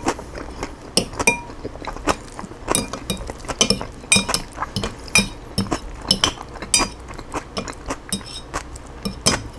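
Eating utensil clicking and clinking against a bowl of chicken salad, in many short irregular taps, several a second, some with a brief ring.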